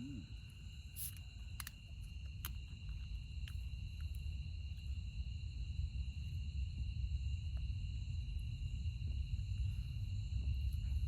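Night insect chorus, crickets trilling steadily at two high pitches, over a low rumble. A few sharp clicks come in the first couple of seconds.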